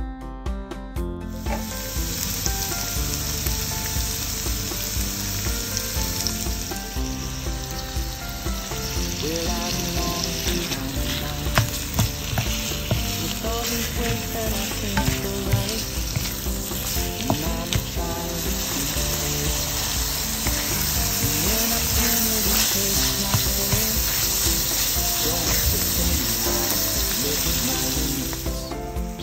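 Ground meat and chopped onion frying in a hot pan, a steady sizzle that starts about a second in, with a spatula stirring and clicking against the pan.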